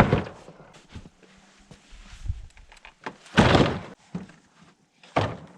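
Sawn lumber boards being stacked onto a pile of slabs: several wooden thunks, with a heavier, longer knock and scrape about three and a half seconds in as a board is laid on the stack.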